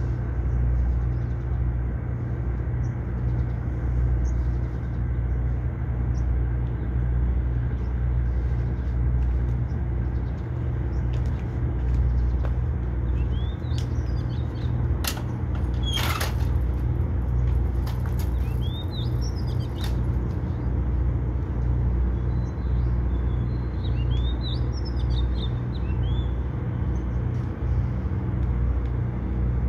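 Small birds chirping in short rising and falling calls through the middle stretch, over a steady low rumble. A sharp click comes about halfway.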